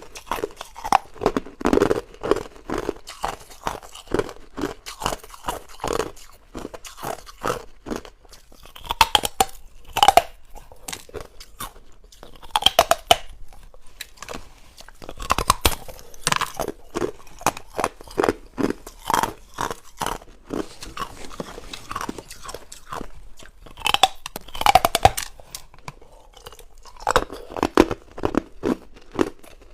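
Hard ice being bitten and chewed close to the microphone: a continuous run of sharp crunches, with louder clusters of bites every few seconds.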